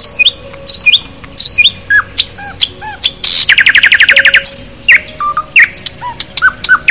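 Small birds chirping: quick, sharp chirps and short whistles, some sliding down in pitch, with a fast rattling trill lasting about a second near the middle.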